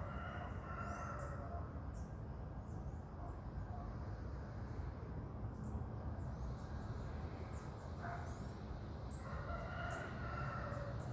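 Marmosets making many short, very high-pitched chirps at irregular intervals. A lower-pitched call sounds near the start and again about nine seconds in, over a steady low rumble.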